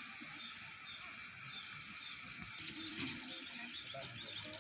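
High-pitched bird chirping. A few short gliding notes come first, then from about halfway through a fast run of repeated chirps, over faint outdoor background noise.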